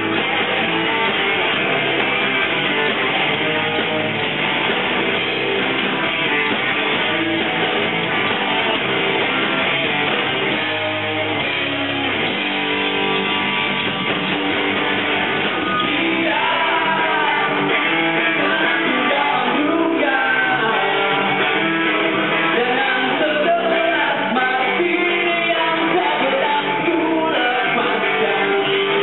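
A rock band playing live: strummed guitars, with a voice singing over them.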